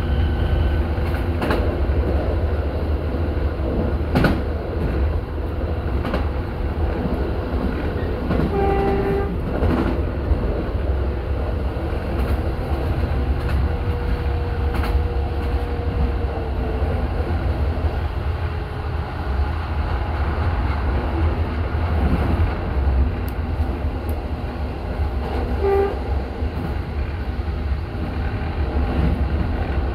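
Diesel passenger railcar running along the line: a steady low rumble of engine and wheels, with scattered clicks from the rails. Two short pitched tones sound, about nine seconds in and again near the end.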